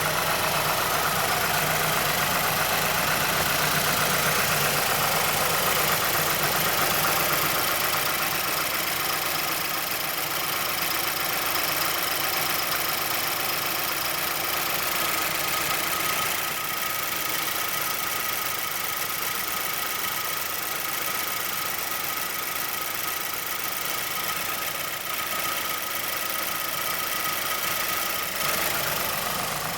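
Mazdaspeed6 2.3-litre DISI turbocharged four-cylinder idling steadily with a rapid, even clicking from the engine bay. It is the kind of noise Mazda's SSP-87 puts down to a worn VVT actuator or a stretched timing chain.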